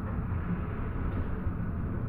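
Steady low rumble of a Basel tram.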